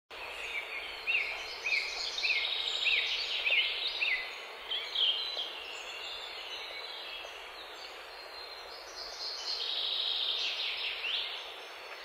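Birds singing over a steady hiss of outdoor ambience. One bird repeats a short, sharp rising-and-falling note about every half second for the first few seconds, and a busier burst of chirping comes near the end.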